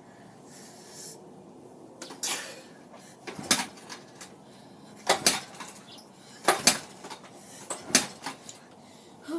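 110cc dirt bike being kick-started over and over: about five sharp metallic clanks of the kick-start lever, roughly one every second and a half, with the engine failing to catch.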